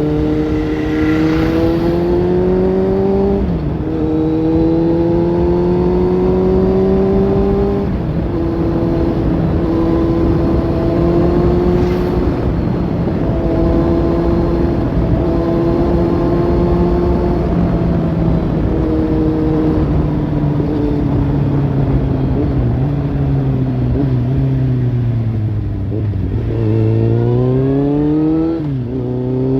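Kawasaki Z800's inline-four engine through a Lextek slip-on exhaust, pulling up through two gear changes, then holding a steady speed. It eases off slowly, then revs up again with another quick drop in pitch near the end.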